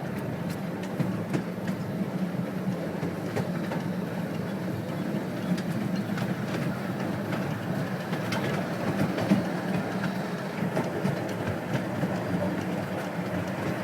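12-inch gauge steam locomotive running with its train on the track: a steady rumble with scattered sharp clicks from the wheels and rail.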